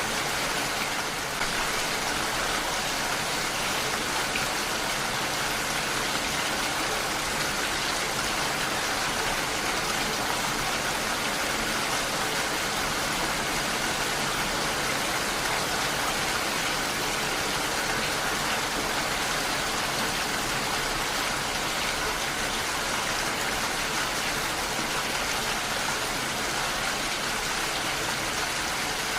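Heavy rain falling steadily, an even hiss with no thunder or other events.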